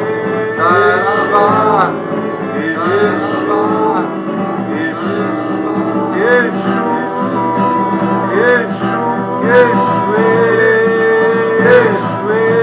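Music: a voice singing long held, wavering notes over a plucked guitar accompaniment.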